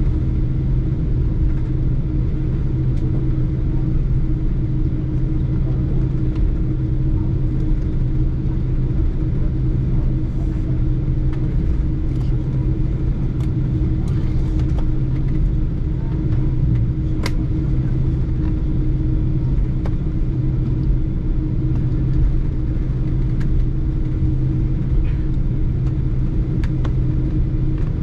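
Boeing 747-8 airliner with its engines running: a steady low rumble and an even hum with no change in pitch, with a few faint clicks and rattles.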